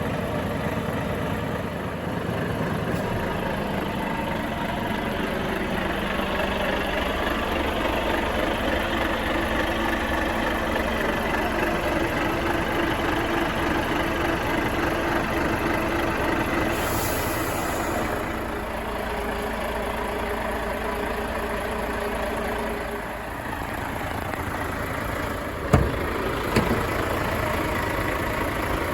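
Volvo FH 540 truck's 13-litre straight-six diesel running steadily, its note rising a little and then settling back. A short high hiss is heard about halfway through, and two sharp clicks come near the end.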